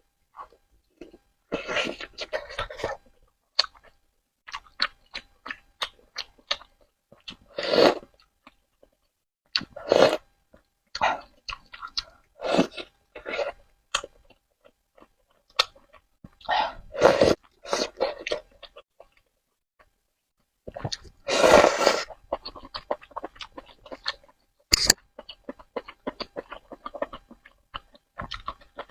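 Close-miked eating of spicy noodles: wet chewing and mouth clicks at an uneven pace, broken by several louder noisy bursts of a second or less, as noodles are slurped.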